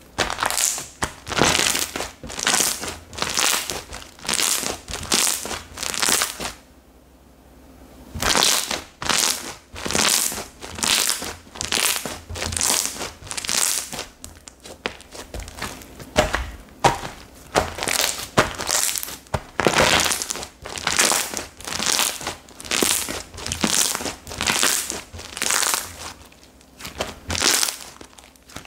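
Slime being squeezed and pressed by hand, making crackly, squishy strokes about three every two seconds, with a short pause about seven seconds in.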